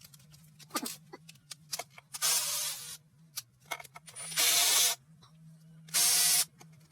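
Three short hissing bursts of pressurised air or spray, each under a second, with small clicks and knocks of tools being handled between them.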